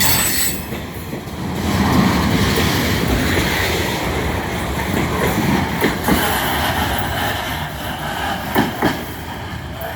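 Long freight train's cars rolling past as it slows, wheels clattering over the rail joints, with a few sharper clanks about two thirds of the way through.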